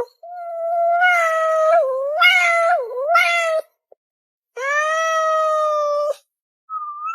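A cat yowling in long, drawn-out meows: a wavering call of about three seconds, then a second steadier one of about a second and a half, and a short call near the end.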